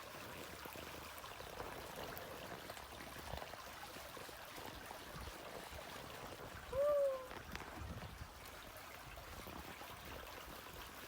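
River water flowing and trickling steadily, with a brief rising-and-falling vocal exclamation about seven seconds in.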